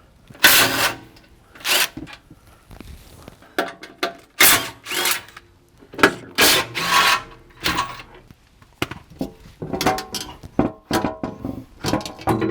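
Cordless power tool with a 12 mm socket running in short repeated bursts, spinning out the bolts that hold the truck's underbody skid plate, with clicks and rattles of the bolts and plate in between.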